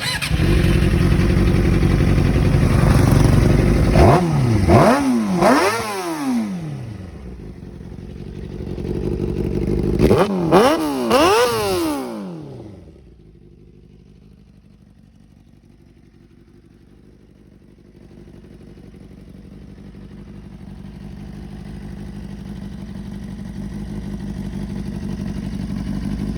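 Suzuki GSX-R600 inline-four engine through a raw exhaust: held at raised revs, then blipped three times in quick succession, held up again and blipped three more times, before dropping back to a steady idle that grows louder toward the end.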